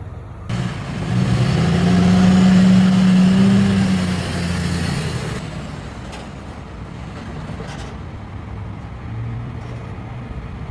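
A motor vehicle engine running: it rises to a loud peak over a couple of seconds and then falls away, leaving a quieter low rumble.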